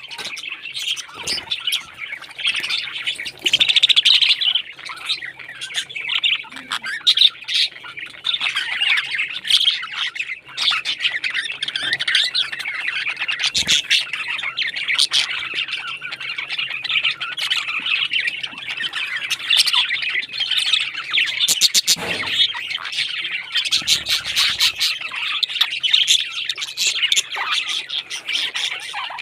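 Many parrots chirping and squawking at once in a continuous chatter, with a few sharp clicks among the calls.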